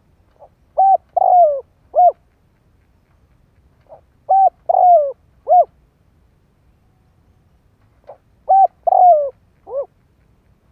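Spotted dove cooing: three phrases about four seconds apart, each a faint lead note followed by three coos, the middle coo drawn out and falling. It is a decoy bird's call, used to lure wild doves.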